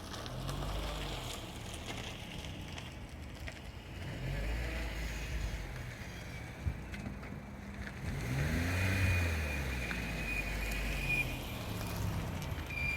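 GE8 Honda Fit being driven, with low road and drivetrain rumble that rises and falls in pitch. A thin high steady whine comes in about eight seconds in and lasts about three seconds: the brake noise that occurs with the brakes off and brand new pads fitted.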